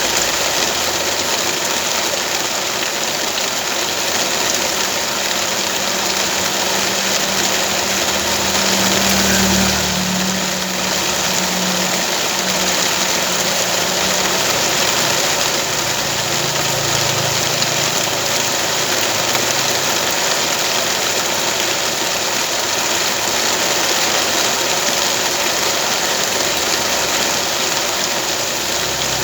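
An engine running steadily, under a constant hiss.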